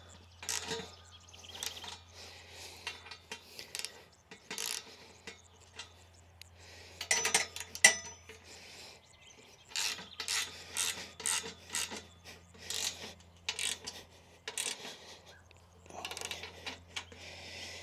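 Irregular metallic scraping, rasping and clicking as the metal frame and mast of a non-penetrating roof mount are handled and adjusted, over a steady low hum.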